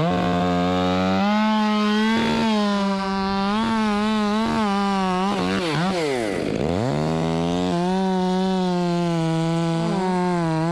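Two-stroke chainsaw revving up to full throttle and held there, its revs dropping away and climbing back about six seconds in, with more throttle changes near the end.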